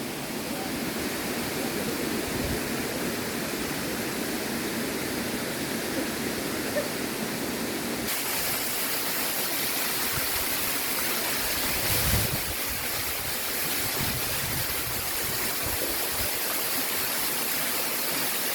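Rushing water of Argyle Waterfall cascading into its pools, a steady even roar of falling water. The rush turns brighter and hissier about eight seconds in, with a brief low bump a few seconds later.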